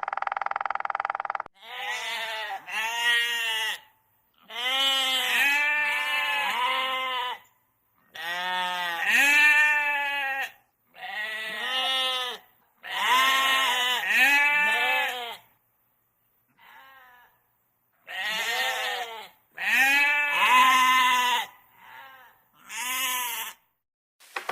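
A series of bleats, about ten calls, each one to three seconds long with a quavering, wavering pitch and short pauses between them.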